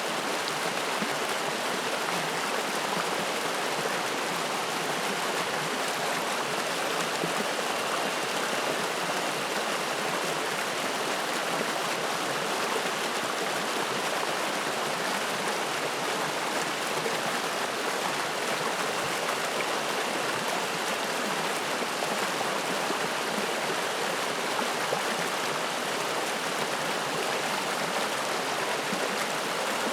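Spring-fed mountain stream flowing: a steady, even rush of water.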